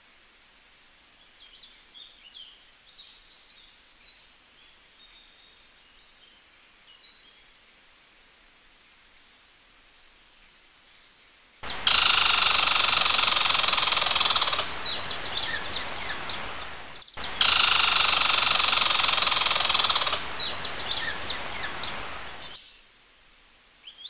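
Faint bird chirps, then about halfway through a squirrel's rapid chattering alarm call, loud, played twice in a row with a short break between, each run about five seconds and ending in scattered short chirps.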